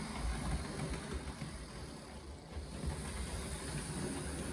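Märklin BR03 model steam locomotive running along the track with wagons in tow, a steady motor and wheel rumble with a hiss. It eases off and quietens about halfway through, as the controller is turned the wrong way, then picks up again.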